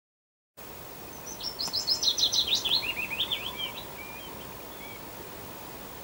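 A small songbird sings one quick phrase of rapid notes that step down in pitch and end in a short flourish, with a few fainter bird notes after it, over a steady outdoor hiss.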